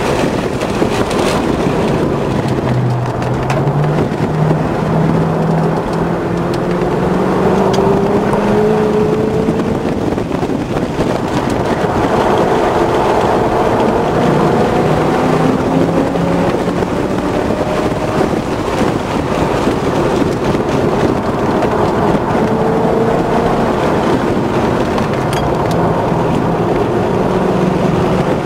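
2006 Corvette Z51's 6.0-litre V8 under hard track driving, heard from inside the cabin, rising in pitch several times and falling back between the rises, over steady wind and tyre noise.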